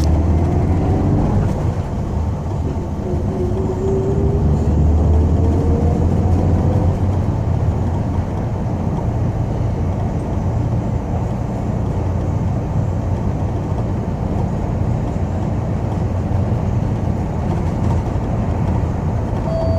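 Inside a moving city bus: steady low engine and road rumble. A whine rises in pitch from about two to seven seconds in.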